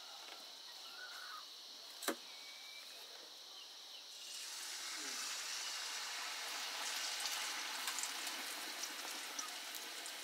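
Sel roti rice batter poured by hand into hot oil in a wok, starting to sizzle about four seconds in and frying steadily after. A single sharp knock comes about two seconds in.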